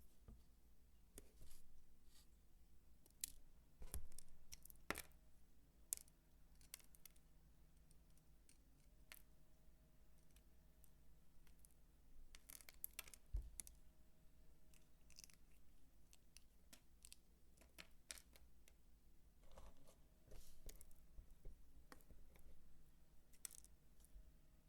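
Dry soap handled close to the microphone: faint, irregular crisp clicks and short scrapes, with a few sharper cracks scattered through.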